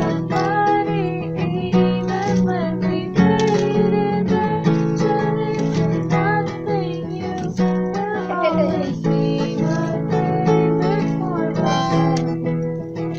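Acoustic guitar strummed with a melody line over it that bends in pitch.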